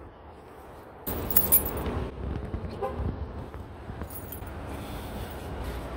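Rumbling handling and wind noise on a hand-held phone microphone carried on foot, starting suddenly about a second in. A light metallic jingle comes through twice, once soon after the rumble starts and again near the middle.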